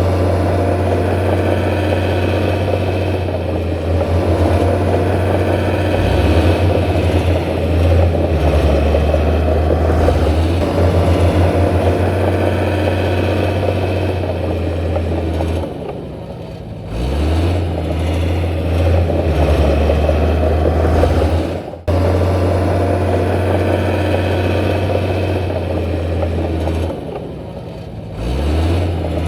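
Diesel engine of heavy earthmoving machinery running hard. It eases off twice and revs back up, with one abrupt break about two-thirds of the way through.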